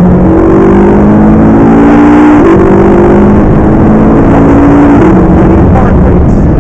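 McLaren MP4-12C's twin-turbo 3.8-litre V8 under full acceleration. The revs climb, drop sharply about two and a half seconds in at an upshift, climb again, and change once more about five seconds in.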